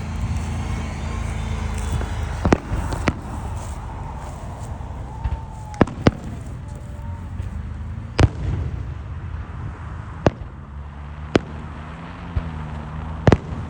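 Fireworks going off: about eight sharp, separate bangs at irregular intervals, over a steady low hum.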